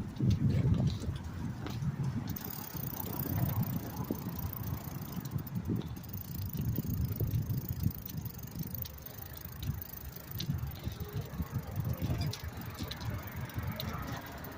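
Bicycle in motion: an uneven low rumble of riding noise, with scattered small clicks and rattles.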